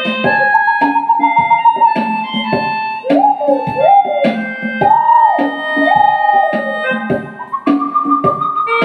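Melodica playing a melody of held notes, some sliding up and down in pitch, over a steady drum beat.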